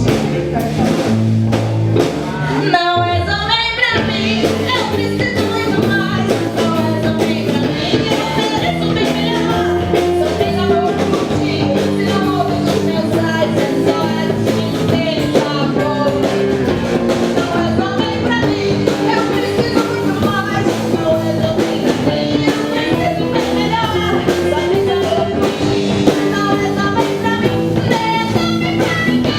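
Live band playing a rock-tinged Brazilian popular song: electric guitar, bass and drums, with a quick run about three seconds in.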